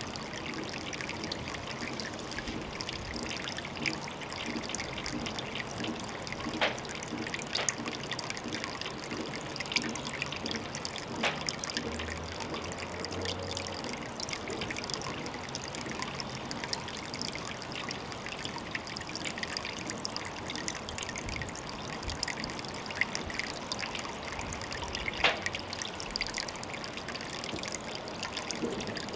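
Water trickling steadily at a pond, full of small drips and splashes, with a few sharper drips standing out.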